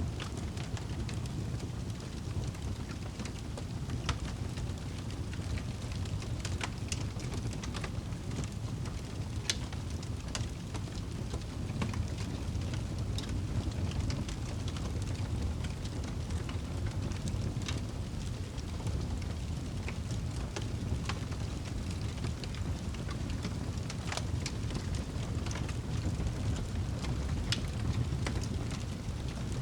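Wood fire burning in a fireplace: a steady low rumble of flame with irregular sharp crackles and pops from the burning wood, about a dozen scattered through.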